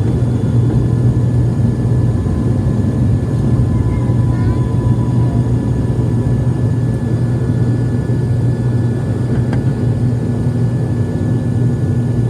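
ATR twin-turboprop airliner's engines and propellers running at take-off power, a steady low drone that holds level throughout.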